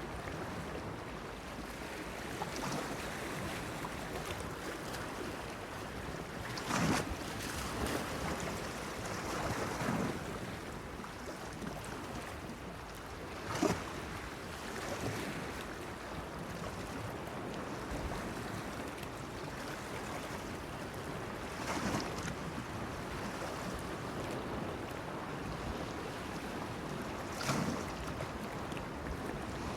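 Small waves washing and splashing against a breakwater pier, over a steady hiss of water and light wind. Four sharper splashes stand out, spaced several seconds apart.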